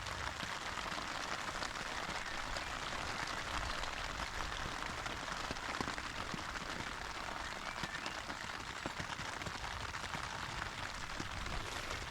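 Steady rain pattering on a tent's fabric, many small drops ticking over an even hiss.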